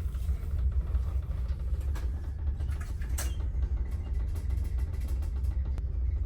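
Cruise ship rumbling deep and steady as it manoeuvres to dock, shaking the cabin, with a few light creaks and clicks from the cabin.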